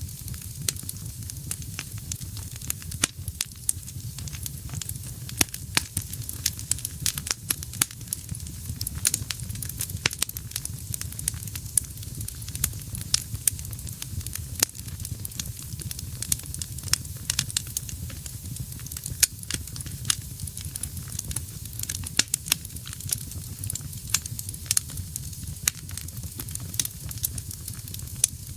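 Wood fire burning in a fireplace: steady low rumble and hiss of the flames with frequent irregular sharp crackles and pops of the burning wood.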